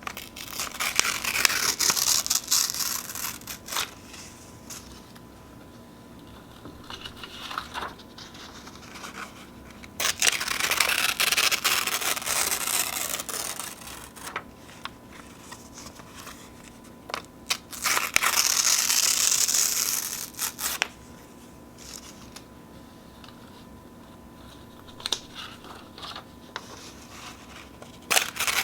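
Sheets of paper being torn slowly by hand: three long rips of two to four seconds each, a fourth beginning right at the end, with quieter rustling and crinkling of the paper between them.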